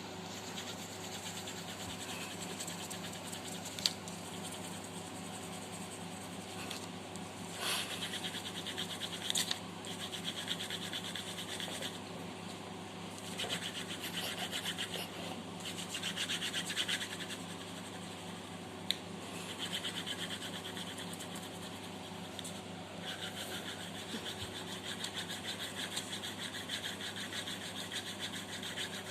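Graphite pencil scratching across paper in repeated stretches of quick shading strokes, over a steady low hum.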